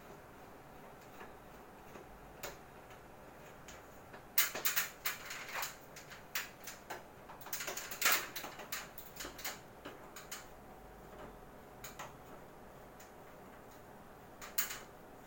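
Clicks and taps from an air conditioner's casing and parts being handled while it is taken apart: a few single clicks, then a dense run of clicks and rattles for several seconds, then a few more single clicks near the end.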